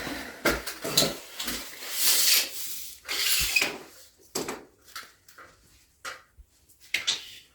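Scraping and rubbing sounds of things being handled, followed by scattered light clicks and knocks that thin out toward the end.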